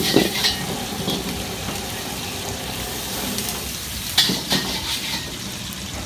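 Prawns, squid and garlic sizzling steadily in hot oil in a wok, with a few sharp metal clinks of utensils against the wok near the start and twice about four seconds in.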